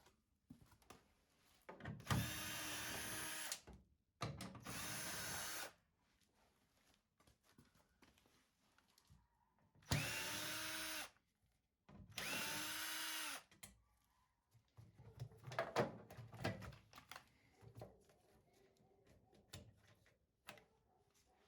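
Cordless drill-driver running in four short bursts of about a second and a half each, its pitch rising as each one starts, backing screws out of the washing machine's panels during disassembly; light clicks and knocks of parts being handled follow.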